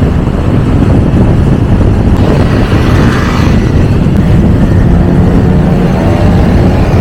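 Motorcycle riding in city traffic: engine running under a loud, steady low rumble of wind and road noise.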